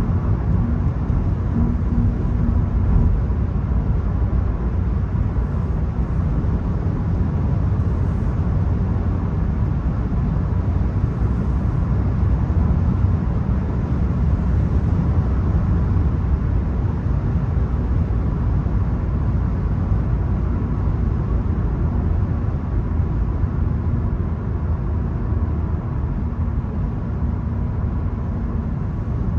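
VW Golf 1.0 TSI three-cylinder turbo petrol car on the move: steady low road and engine noise, with a faint engine tone showing in the first few seconds and again near the end.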